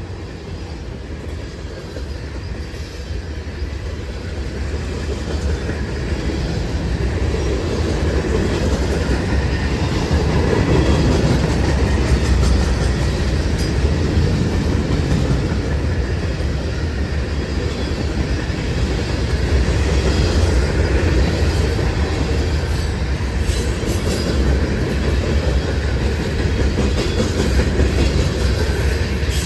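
CSX freight train passing at speed: its steel wheels rumble and click over the rail joints. It grows louder over the first ten seconds or so, then stays steady.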